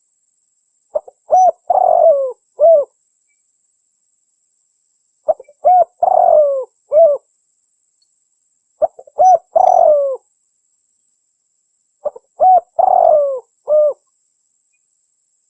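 Spotted dove (tekukur) cooing in four repeated phrases about three and a half seconds apart. Each phrase is a few short coos around a longer, drawn-out falling coo, with dead silence between phrases. It is a looped recording of the call used as a lure to draw in wild spotted doves.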